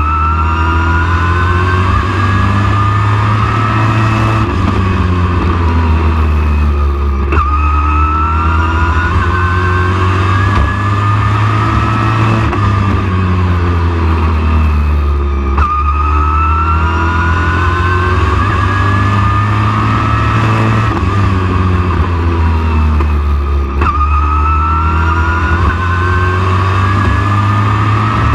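Super truck race engine running hard on a short oval: its pitch climbs for about four seconds as it accelerates, then drops as it lifts off. This repeats about every eight seconds, over a constant heavy low drone.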